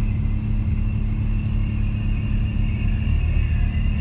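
Diesel passenger train running, heard from inside the carriage: a steady low rumble and hum with a faint high whine above it.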